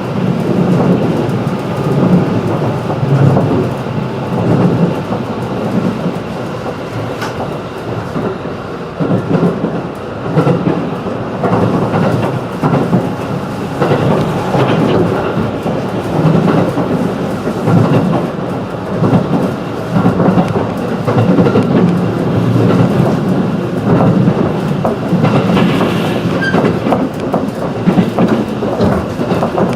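Interior running noise of a 211 series electric train: a steady rumble of wheels on rail with irregular clicking over rail joints, heard from inside the passenger car.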